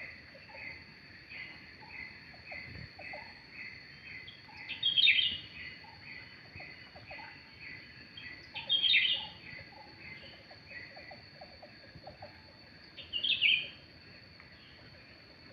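Cucak rante bird calls: a steady run of short chirps, about two a second, with a louder burst of calls about 5, 9 and 13 seconds in. A constant high whine runs underneath.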